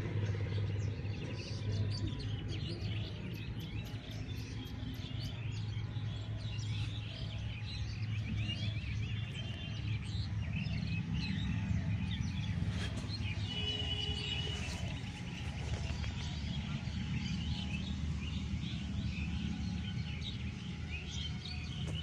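Many small birds chirping and twittering, with short calls overlapping throughout, over a steady low rumble.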